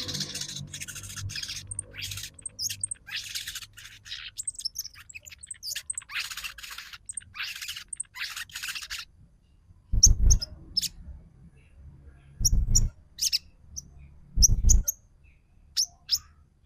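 Crimson sunbird (sogon) singing its rapid chattering 'trotol' song, used as a lure call to stir a silent bird into song. The fast run of high notes goes on for about nine seconds, then after a short pause gives way to separate sharp high chips, each of three of them joined by a low thump.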